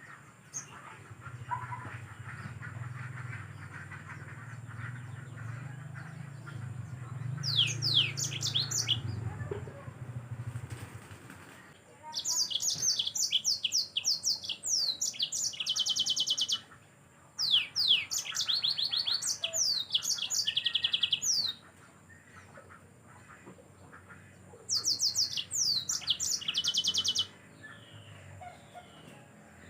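Yellow-fronted canary (Mozambique canary) singing in four bursts of rapid, high twittering song, mixing quick downward-sweeping notes with fast buzzy trills, each burst lasting a few seconds. A low hum runs beneath the first third.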